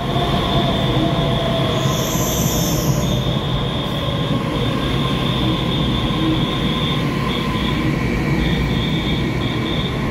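Taiwan Railway EMU3000 electric multiple unit running into an underground station platform, with steady wheel-on-rail rumble echoing off the walls. Over it are a steady high-pitched tone that breaks up near the end, a faint whine that sinks slightly in pitch during the first few seconds, and a brief high hiss about two seconds in.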